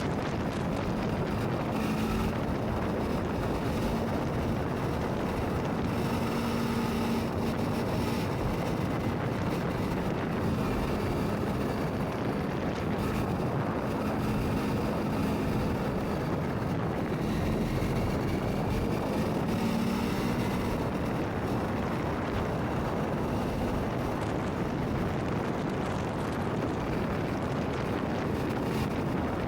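Motorcycle on the move: steady wind rush over the microphone with the engine's hum underneath, its pitch drifting a little up and down.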